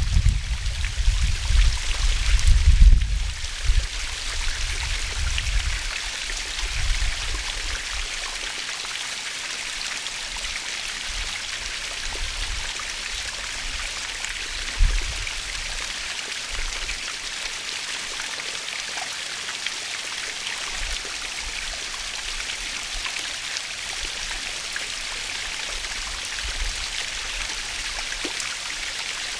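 Small natural waterfall: water falling and splashing in a steady, even rush. A low, unsteady rumbling sits under it for the first few seconds, and there is one brief low thump about halfway through.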